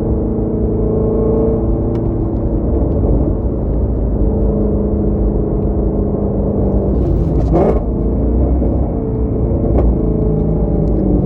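Exhaust of a 2017 Shelby GT350's 5.2-litre flat-plane-crank V8, with resonator delete, X-pipe, off-road mid-pipes and exhaust valves open, running steadily at cruise. About seven seconds in there is a brief burst of crackling, typical of exhaust backfire pops off the throttle.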